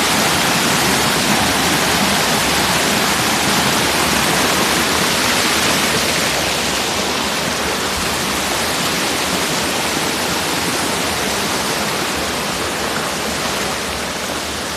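Waterfall rushing steadily, an even wash of falling-water noise that eases slightly in loudness toward the end.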